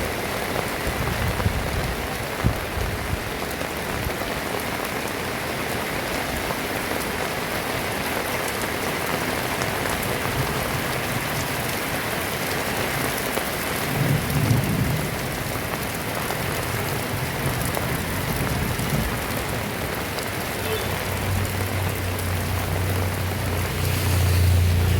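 Heavy rain falling steadily, a dense even hiss of drops. Low rumbles rise briefly about halfway through and again, stronger, near the end, with a single sharp tap early on.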